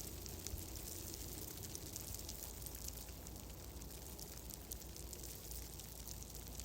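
Fireplace fire crackling: a steady hiss sprinkled with many small, quick crackles, over a steady low rumble.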